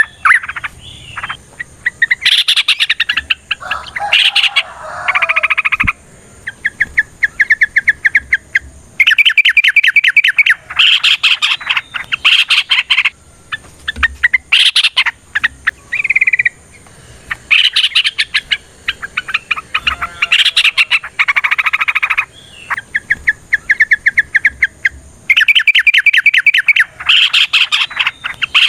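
Yellow-vented bulbul (trucukan) singing long, fast rattling phrases of rapidly repeated chattering notes, each run lasting a few seconds with short pauses between. It is the agitated, fighting-mood song used as a lure call to draw other bulbuls into answering.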